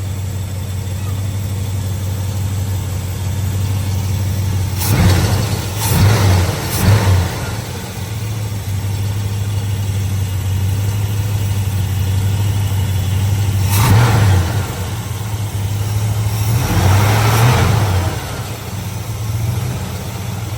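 Chevelle engine running at a fast idle with a steady hum, held high by the fast idle linkage being stuck up. Three quick revs come about five seconds in, and two more follow near the middle and later on.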